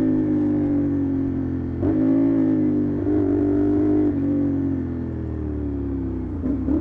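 CFMoto 450 parallel-twin engine through an SC-Project aftermarket exhaust, with the bike slowing through the gears: the engine note sinks steadily and steps back up twice as it is downshifted.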